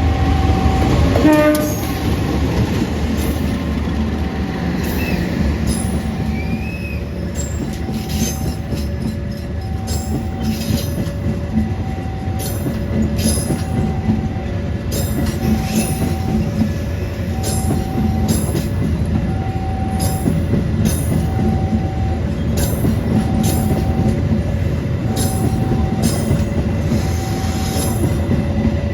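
A diesel locomotive hauling a train of carriages passes close by with a loud steady rumble, and a brief horn sounds about a second in. The wheels clack over the rail joints at uneven intervals through the rest of the passage, under a two-tone electronic warning signal alternating high and low about every second.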